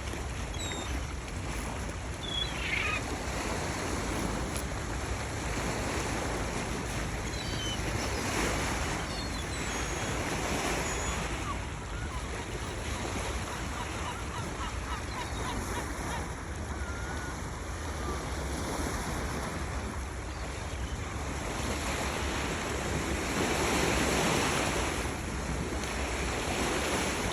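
Steady wind and sea noise, with a few faint short gull cries now and then.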